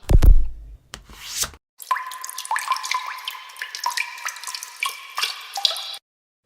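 Water drops plinking, several a second, for about four seconds, each a short bright plip. It is preceded near the start by a short loud hit and a brief rushing noise.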